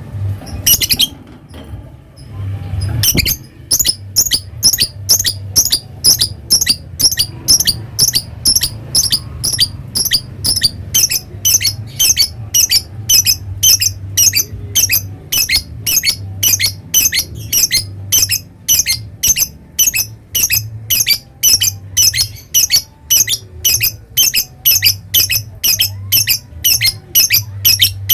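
Lovebird calling: a sharp call, a short pause, then from about three seconds in a long, steady run of short, shrill, high-pitched calls at about three a second, the repeated chatter that keepers call 'ngekek'. A steady low hum runs underneath.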